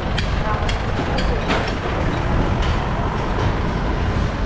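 Steady rumble of riding along a city street, with wind rumble on the microphone and traffic noise. A few sharp clicks come in the first second and a half.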